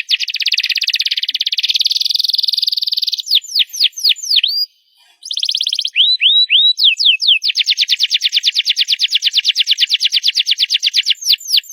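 Domestic canary singing loudly: long, very fast trills alternating with series of quick downward-sweeping whistled notes, with a brief pause about five seconds in.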